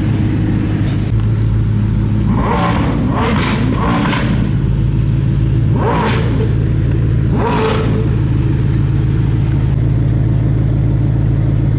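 Koenigsegg twin-turbo V8 idling with a steady low rumble, with five short hissing bursts over it between about two and eight seconds in.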